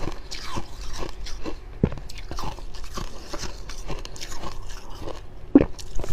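Close-up crunching and chewing of fluffy freezer frost: a run of short, dry, irregular crunches, several a second, with a louder bite near the end.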